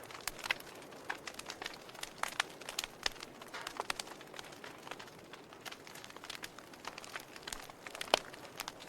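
Wood fire burning in a fireplace, crackling: irregular sharp pops and snaps of burning logs over a soft, steady hiss, with one louder pop near the end.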